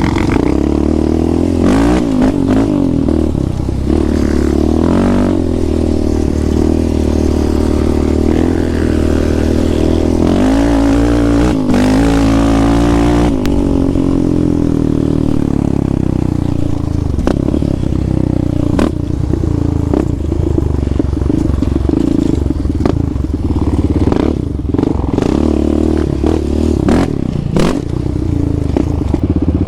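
Engine of an off-road vehicle being ridden hard, its pitch rising and falling repeatedly as the throttle is worked, with scattered clatter and knocks from the machine over rough ground.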